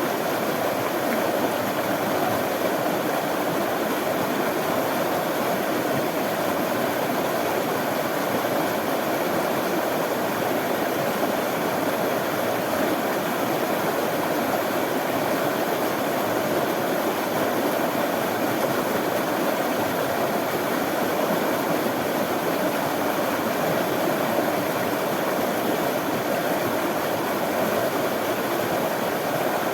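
Running water of a stream, a steady, even rush of flowing water without pauses or distinct splashes.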